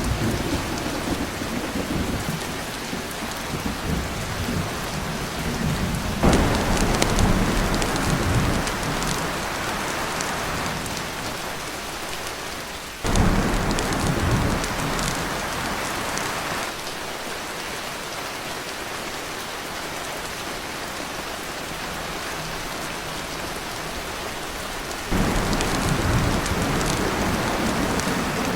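Heavy rain pouring on a tin roof, with thunder rumbling. The sound swells suddenly three times, about six, thirteen and twenty-five seconds in, each time easing off over a few seconds.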